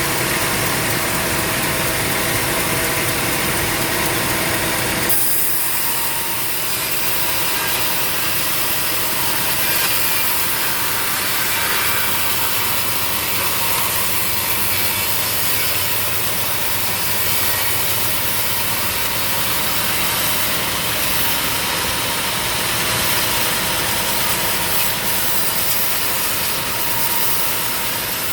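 Sawmill blade cutting through a mahogany log. For the first five seconds or so a low engine hum dominates; then the cut takes over as a steady, high sawing noise.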